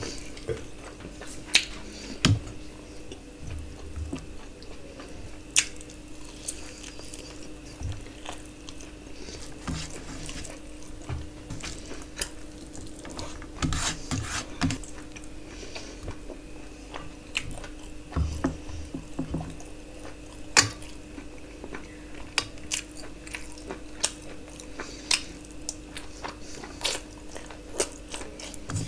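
Close-miked eating sounds: chewing and biting as handfuls of rice and curry are eaten, with wet squishing as fingers mix rice on a steel plate and many sharp clicks scattered throughout. A steady low hum runs underneath.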